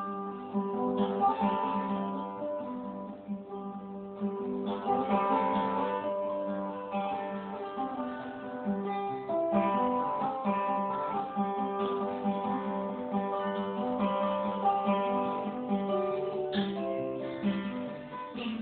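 Acoustic guitar played solo in an instrumental break between verses, picked and strummed notes ringing over a steady bass.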